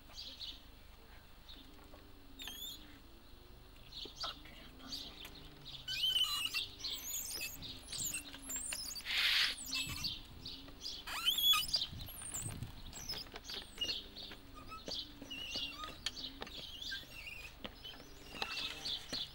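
Songbirds chirping and singing in many short, quick calls and whistles, with a short hiss about nine seconds in.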